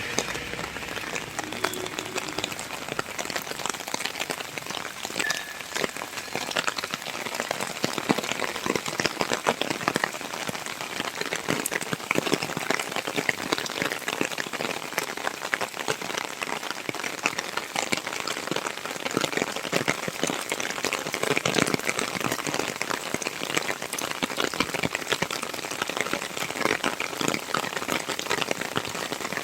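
Steady rain falling, a dense patter of individual drops over a continuous hiss.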